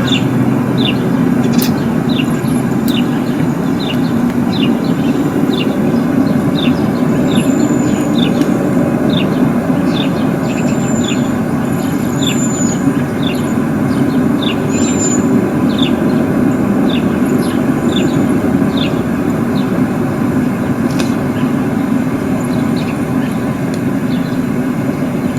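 A steady, loud low drone, one of the reported unexplained 'strange sounds' in the sky, with a bird chirping repeatedly over it, about one and a half chirps a second.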